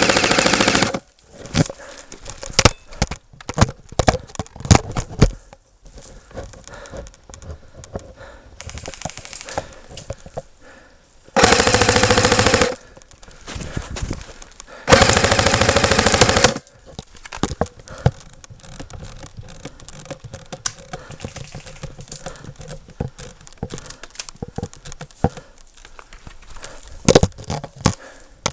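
Airsoft gun firing full-auto: three long, rapid bursts of a second or so each, one at the start, one about eleven seconds in and one about fifteen seconds in. Scattered single pops and clicks fall between the bursts.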